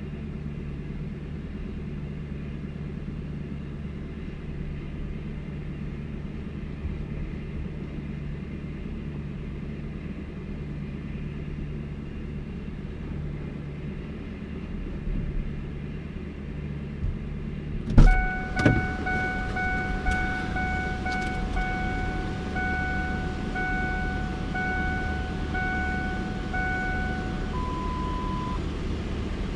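Steady low rumble of a vehicle. About 18 seconds in, two sharp knocks are followed by a vehicle's warning chime pulsing evenly for about nine seconds, then a single higher beep.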